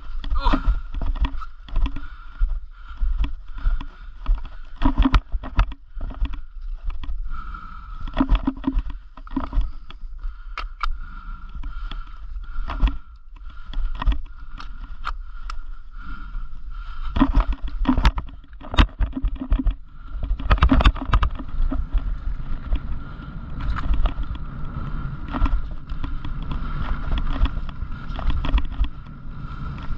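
A mountain bike clattering and rattling over a rough trail in many sharp knocks, with a steady high tone running underneath and low wind rumble on the microphone.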